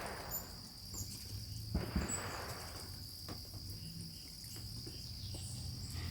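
Crickets chirring in a steady, high-pitched chorus, with a brief soft rustle about two seconds in.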